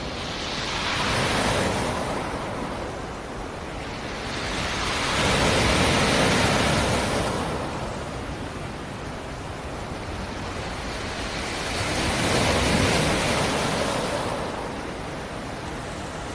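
Sea surf: three waves break and wash in, one after another, about every five to six seconds, each swelling and then fading into a steady hiss of water.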